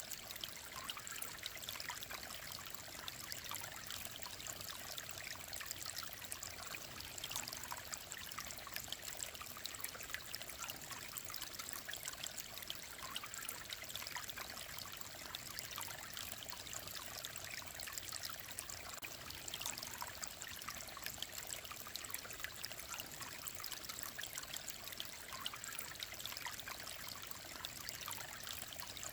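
Mountain stream flowing steadily, with a continuous trickling, babbling rush of water.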